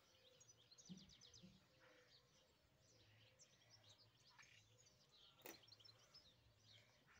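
Near silence with faint bird chirps and twitters throughout, and one sharp click about five and a half seconds in.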